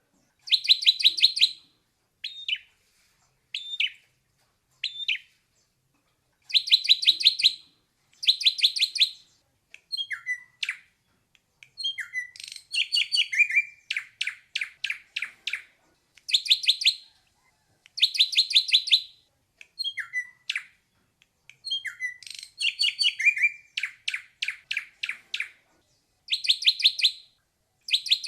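Ashy drongo singing: short runs of rapid, evenly repeated notes, each run about a second long, alternating with single downslurred whistles and brief pauses.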